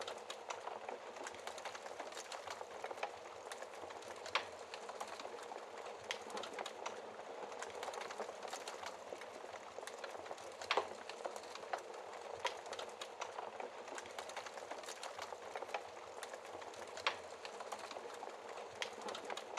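Wood fire crackling in a fireplace: a steady hiss of small crackles with a few louder pops.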